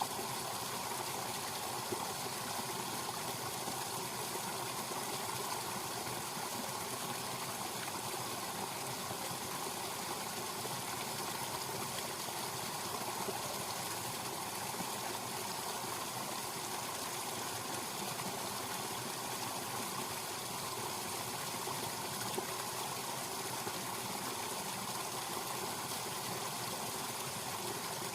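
Small spring stream running steadily over its bed, an even rush of flowing water that does not change.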